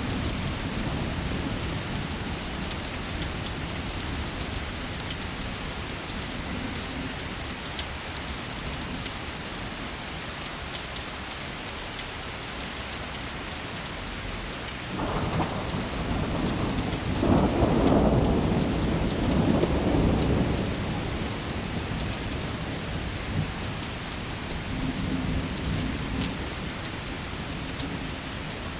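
Steady heavy rain, with a low roll of thunder swelling up about halfway through and rumbling for several seconds before it fades back into the rain.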